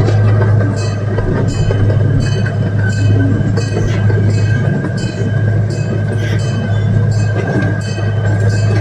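Zoo train running, with a steady low engine hum and a regular clicking about twice a second.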